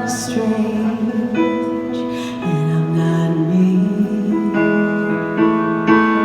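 Live band playing a slow, tender song, with keyboard chords holding and changing every second or so.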